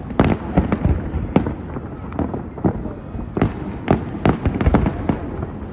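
Aerial fireworks going off in rapid, irregular succession: many sharp bangs and crackles a second, with a few louder reports standing out.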